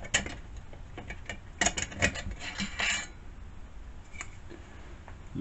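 Light metallic clinks and rattles, with a dense flurry of them in the middle, from hand tools and the stock muffler being handled as the muffler is taken off a gas chainsaw.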